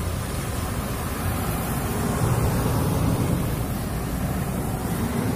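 Steady vehicle road noise, a low rumble with wind buffeting the microphone.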